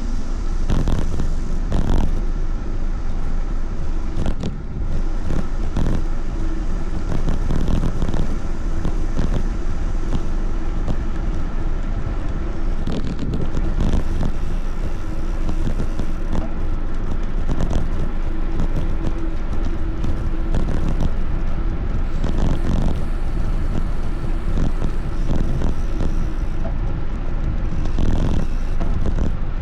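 Steady rumble of wind on the microphone and tyre noise while riding a bicycle, with frequent short rattles and knocks from the bike going over a rough surface.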